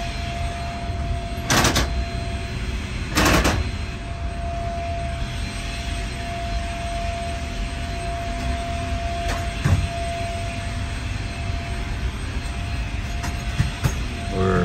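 Running noise inside a passenger train's dome observation car as it rolls slowly: a steady low rumble with a thin steady hum over it. Two short, loud rushes of noise come about a second and a half apart near the start.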